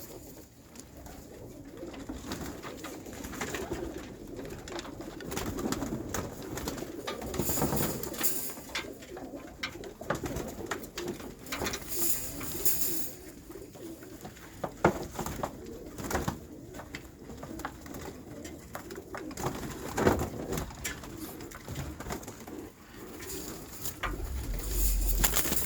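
Domestic pigeons cooing steadily, with scattered sharp clicks and knocks and a few short hissing bursts.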